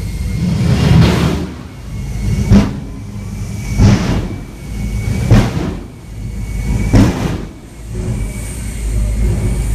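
Jet truck's jet engine run in five surging blasts about a second and a half apart, each ending in a sharp bang, over a steady low rumble.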